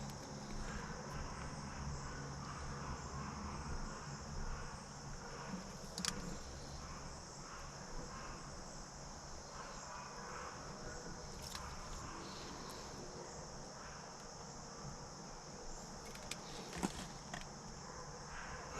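Steady high-pitched insect chirring, with a few sharp clicks about six seconds in and near the end.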